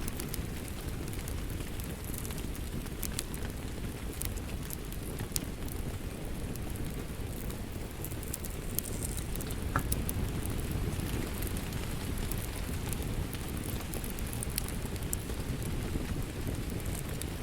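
Steady rain with a crackling wood fire: an even rush of rainfall under scattered sharp pops and crackles from the burning logs.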